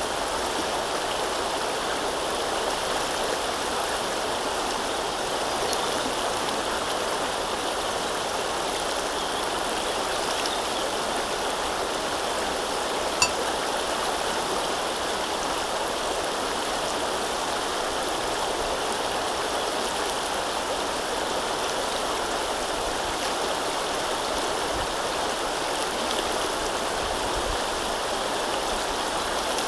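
River water flowing and rippling steadily, with one brief click about thirteen seconds in.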